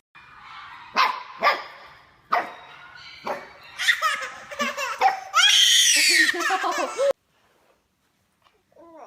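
A dog barking several times and a baby laughing, building to a loud, high burst of laughter that cuts off suddenly.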